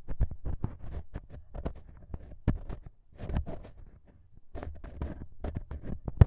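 Ear pick scratching in an ASMR microphone's ear: irregular crackly scrapes and clicks close up, easing off briefly about four seconds in, with one sharper, louder click near the end.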